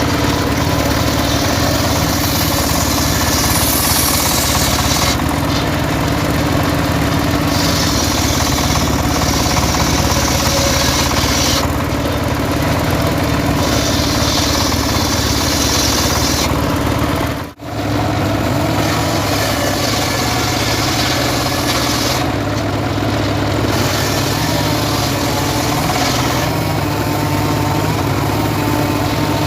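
Engine-driven homemade portable sawmill running steadily while sawing sengon wood, the hiss of the cut swelling and easing in stretches over the engine's steady drone. The sound drops out briefly a little past halfway.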